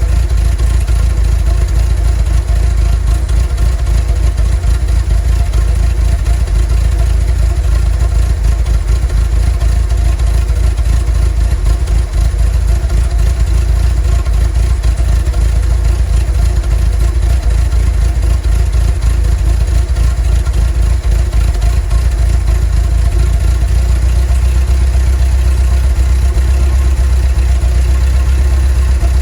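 Volkswagen T3 bus's 2.1-litre water-cooled flat-four (WBX) engine running steadily with a deep, even hum; the low drone shifts slightly lower near the end.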